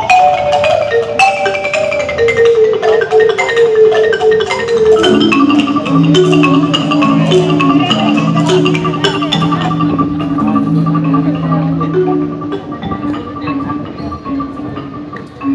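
Percussion ensemble playing marimba and other mallet percussion: quick runs of struck notes stepping downward, then from about five seconds in lower held notes under a repeated higher note, growing softer near the end.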